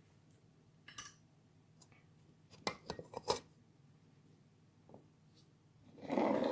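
Small hard objects clicking and clinking together in a few quick taps: a single one about a second in, then a short cluster in the middle. Near the end comes a brief, louder rush of noise.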